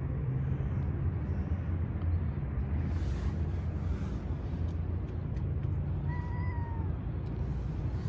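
A cat meows once, a short call about six seconds in that dips slightly in pitch at its end, over a steady low rumble.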